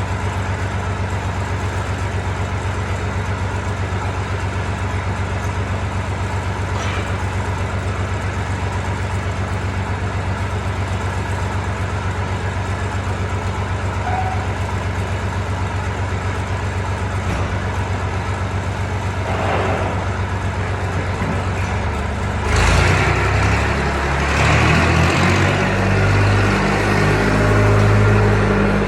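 Massey Ferguson tractor's diesel engine running steadily. About three-quarters of the way through it gets louder and its note shifts and changes as the engine revs or takes load.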